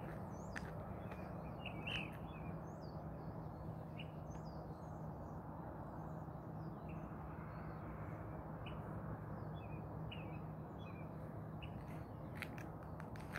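Small birds chirping, with many short, scattered calls over a steady low hum. A few sharp clicks come near the end.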